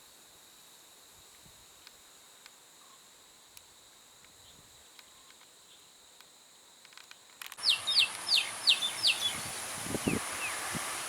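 Faint steady high insect-like drone, then an abrupt switch about two-thirds of the way in to louder outdoor background, over which a bird calls a quick run of five falling whistled notes, followed by two fainter ones.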